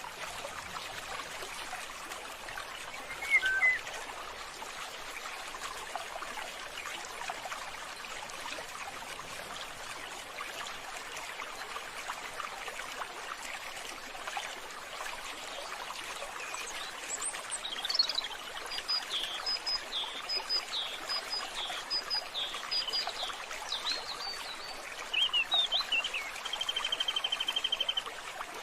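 Steady running or trickling water, with birds calling over it: a brief chirp early on, a quick run of about a dozen short chirps in the second half, and a fast trill near the end.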